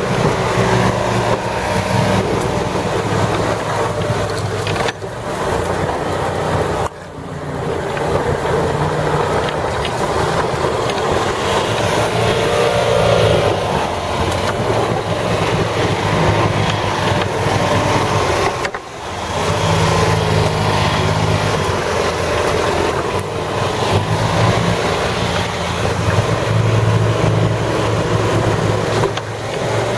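Small engine of an amphibious 6x6 ATV running under load on a flooded trail. Its pitch shifts up and down, and it eases off briefly twice.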